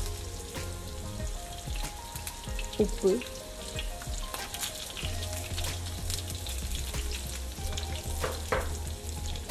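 Raw banana slices and curry leaves frying in hot oil in a nonstick pan: a steady sizzle with many small crackling pops.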